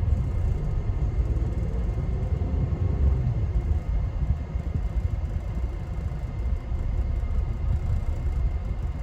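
A 1999 Lexus RX 300's 3.0-litre V6 idling roughly: a low, uneven rumble as the revs hunt up and down. This is the sign of a cylinder 6 misfire, which the owner blames on a failed ignition coil.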